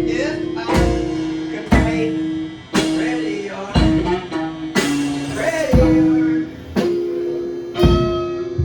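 Band music: electric guitar over a drum kit beating about once a second, an instrumental stretch of a blues-rock song.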